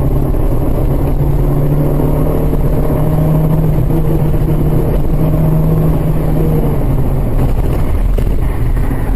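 Car engine and road noise heard from inside the cabin as the car accelerates: a steady drone whose pitch creeps up as the speed rises.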